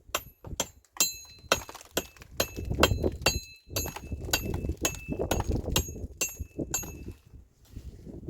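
Repeated sharp metallic clinks, about two a second, each ringing briefly, over a low rumble.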